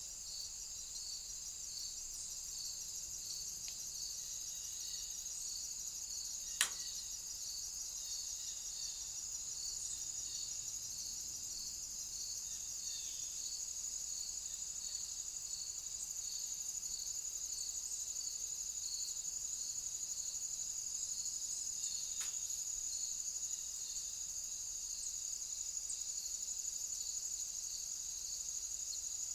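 Crickets trilling continuously in a steady, high, pulsing chorus. A single sharp click cuts through about a third of the way in, with a fainter one later on.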